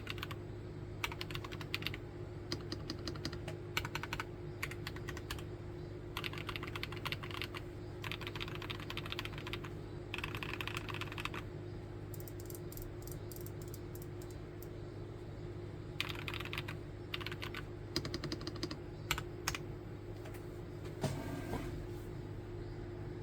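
Typing on a Nuphy Field75 75% mechanical keyboard: runs of quick keystrokes with short pauses between them.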